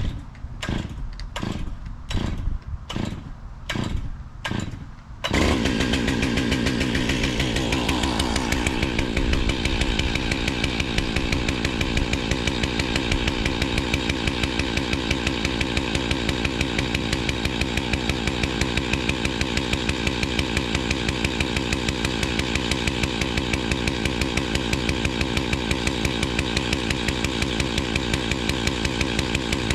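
Chainsaw: a run of about seven regular strokes, then the engine starts suddenly about five seconds in, climbs in pitch over the next few seconds and keeps running steadily with a fast pulse.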